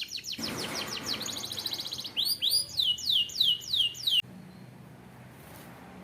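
Canary singing: a fast trill of short falling high notes, then louder arched whistled notes repeated about three a second, cutting off suddenly a little past four seconds in.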